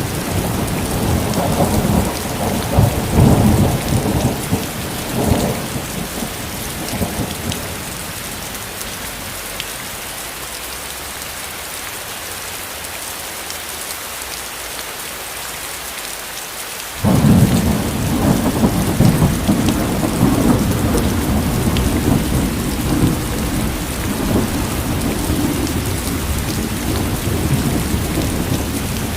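Steady heavy rain with rolling thunder. The low rumble dies away about eight seconds in, leaving only the rain, then comes back abruptly about seventeen seconds in and rolls on to the end.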